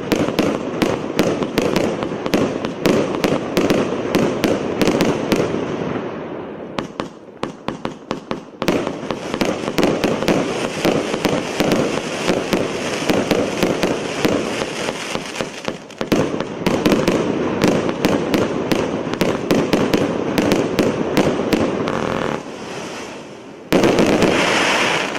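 A 600-shot, 1-inch consumer firework cake firing in rapid succession: quick launch shots over a steady crackle of bursting stars. There is a brief lull about seven seconds in and a sudden louder burst near the end.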